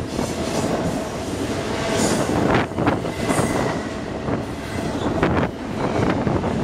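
BNSF double-stack intermodal freight train passing close at speed: a steady loud rumble of well cars rolling by, with sharp wheel clacks at uneven intervals and a faint, thin wheel squeal held underneath.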